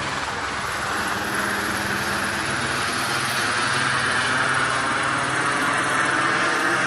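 Police helicopter overhead: steady rotor and engine noise, slowly getting a little louder.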